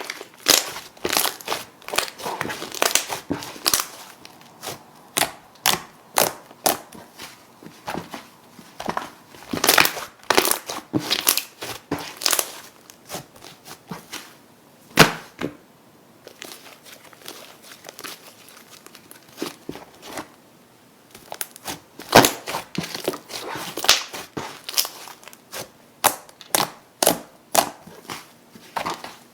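Slime being handled, giving irregular sharp crackling pops and crinkles, with a quieter spell in the middle.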